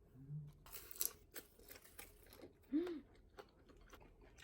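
Eating at the table: scattered light clicks and a short crinkly rustle about a second in, with a brief hummed 'mm' near the start and a louder short rising-then-falling 'hmm' about three seconds in.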